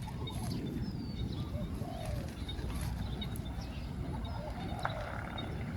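Spotted dove cooing: short low coo notes about two seconds in and again near the end, with small birds chirping high in the background.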